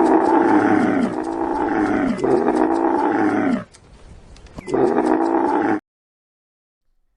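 A large animal calling loudly: four long calls, each falling slightly in pitch, the last after a short pause, cut off suddenly.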